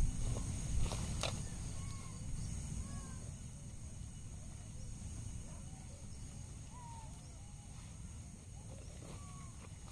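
Outdoor ambience with many short bird chirps scattered throughout, over a steady high hiss and a low rumble, with a few sharp clicks in the first second and a half.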